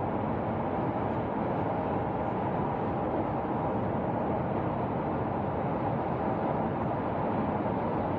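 Steady road and tyre noise of a moving car, heard from inside the cabin, unchanging in level.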